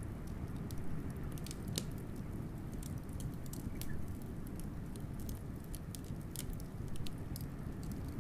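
Wood fire crackling with irregular sharp pops, over a steady low rumble of blizzard wind.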